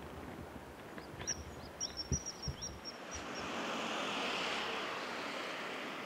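A bird's rapid run of thin, high-pitched calls, about ten short notes in under two seconds, over a rushing outdoor background. The rushing swells a little after the calls and slowly eases.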